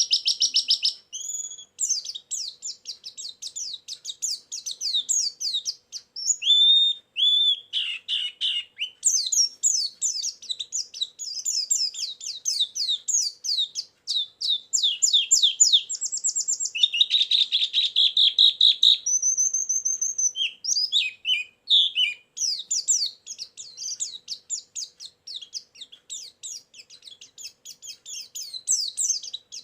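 White-eye (pleci) song: a continuous stream of fast, high twittering chirps and trills, with a few short clear whistles about two-thirds through. It is a lure-and-filler song recording of the kind played to attract wild white-eyes or to tutor caged ones.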